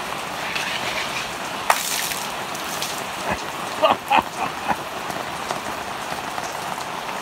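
Heavy rain pouring down in a steady hiss, with a few sharper drip or splat clicks standing out about two to four seconds in.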